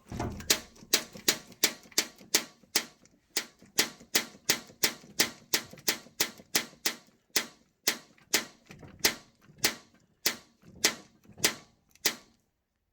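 A steady run of about thirty sharp knocks, roughly three a second, each with a brief ringing tail.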